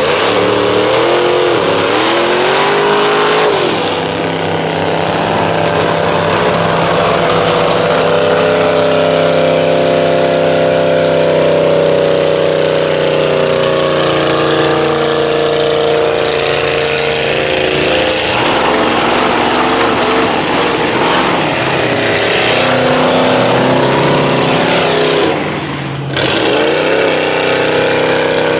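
Mud truck engines running hard under load in a truck tug-of-war, revving up and down, then holding high revs, with a brief drop in engine sound near the end.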